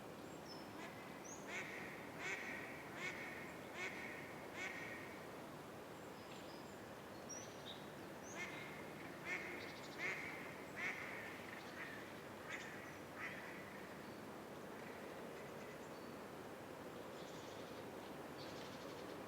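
A bird calling in two runs of about five evenly spaced calls, each run lasting about three seconds, with faint high chirps from small birds over a steady outdoor background hiss.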